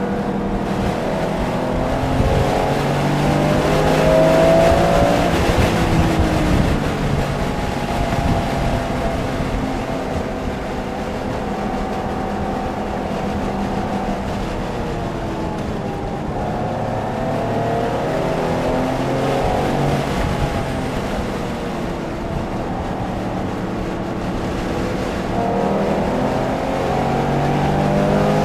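Porsche engine at track speed, repeatedly climbing in pitch under acceleration and dropping back at shifts and braking zones, with tyre and wind noise underneath.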